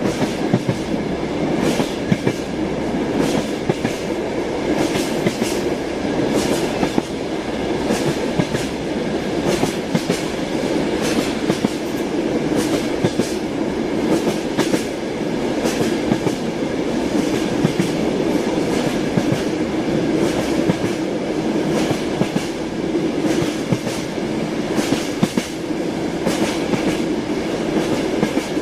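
Moving train: the steady rumble of the wagons with a continuous clickety-clack of the wheels striking the rail joints.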